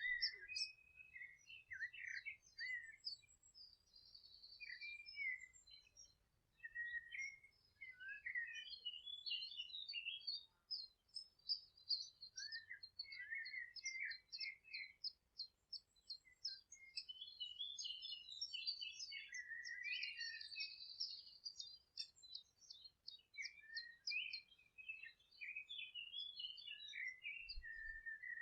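Several songbirds singing at once in a meadow chorus: quick chirps, twitters and rapid trills, with near-continuous song.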